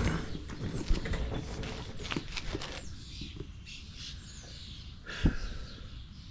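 Scattered clicks and rustling from someone moving and settling into position, with a single knock about five seconds in. Faint bird chirps.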